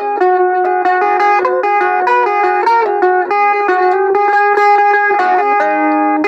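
Harmony electric mandolin being played: a picked melody of quick notes, with some notes held for a second or more.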